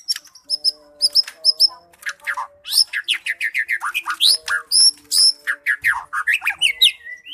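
White-rumped shama singing a loud, rapid song: a run of sharp repeated whistles, then fast falling sweeps and trills, several notes a second, ending near the close.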